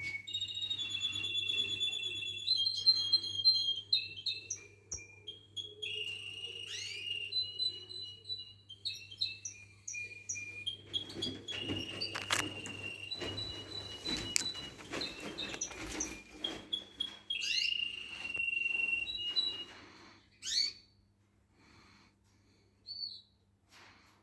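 Canary singing a long, varied song of whistled notes and trills, which stops about twenty seconds in, followed by a few single chirps.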